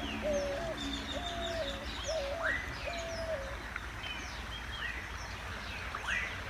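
Several birds calling at once: a low call repeated about once a second that stops about halfway through, over many short chirps and quick whistled sweeps.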